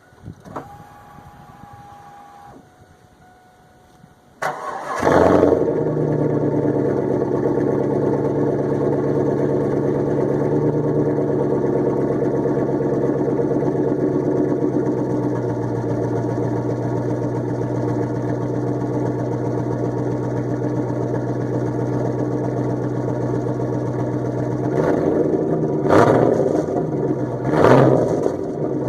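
2000 Camaro Z28's LS1 V8 with an SLP Loud Mouth exhaust starting from cold. After a faint steady whine, it cranks briefly about four seconds in, catches with a flare, and settles into a steady high idle that eases down a little partway through. Near the end come two or three short blips of the throttle.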